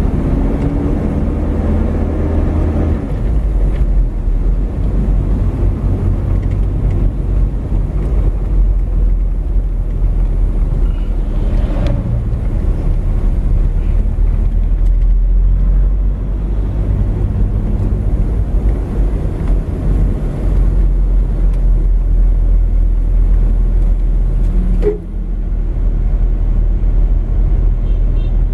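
Car driving along a town street, heard from inside the cabin: a steady low engine and road rumble whose pitch shifts now and then, with a brief drop in loudness about 25 seconds in.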